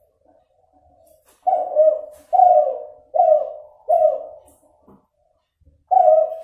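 Crossbred derkuku dove (F2 from a Kelantan derkuku) cooing. A few soft low notes lead into a run of about five loud coos, each dropping in pitch at its end. After a short pause, a new coo starts near the end. The breeder describes this cross's voice as still nasal, with an inconsistent number of closing notes.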